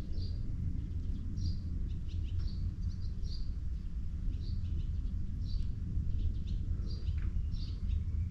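A small bird chirping over and over, short high calls about one and a half a second, over a steady low rumble.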